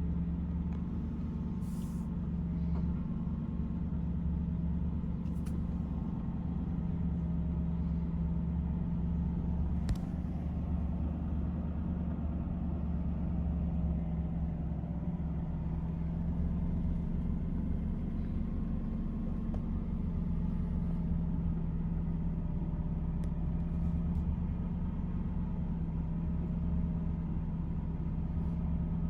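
2006 Aston Martin V8 Vantage's 4.3-litre V8 idling steadily just after a cold start.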